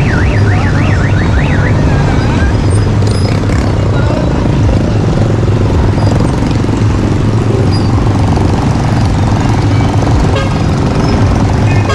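Dense road traffic of heavy vehicles running through floodwater, a steady loud drone of engines. During the first second and a half a siren-like tone warbles rapidly up and down, about three times a second.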